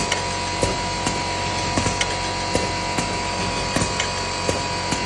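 A two-line siomay (siomai) forming machine running steadily, with a constant mechanical hum and a sharp knock repeating about every two-thirds of a second as it cycles.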